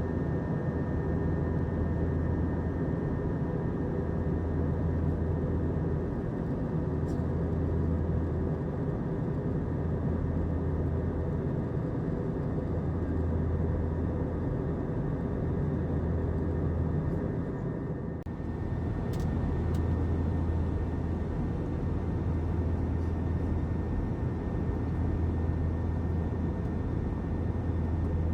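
Airbus A321 airliner cabin noise: a steady rush of engines and airflow with a low drone that swells and fades every couple of seconds, and a faint steady high whine.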